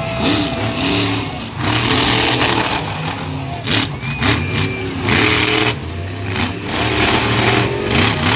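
Monster truck engine revving hard again and again, its pitch rising and falling with each burst of throttle.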